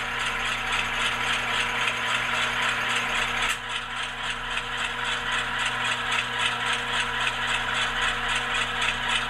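HO-scale ScaleTrains AC4400CW model locomotive crawling at one speed step, its ESU LokSound decoder playing a GE diesel engine sound through the onboard speaker: a steady hum with a fast, even rattle of about four to five beats a second.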